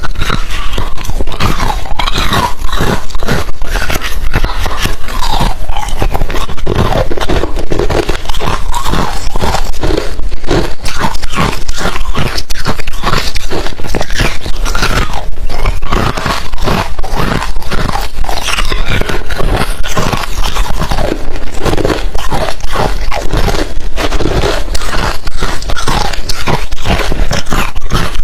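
Refrozen crushed ice being bitten and chewed close to the microphone: a loud, unbroken run of rapid hard crunches.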